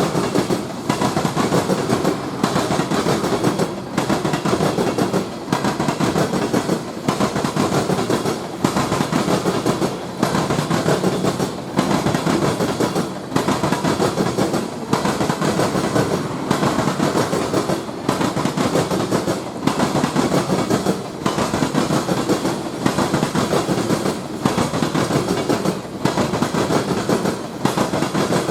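A long train's cars rolling past, wheels clattering on the rails. The sound dips briefly and regularly about every second and a half as each car goes by.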